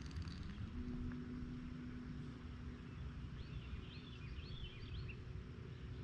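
A bird gives a short run of quick, twittering chirps over outdoor rumble. A faint steady low hum lies under it.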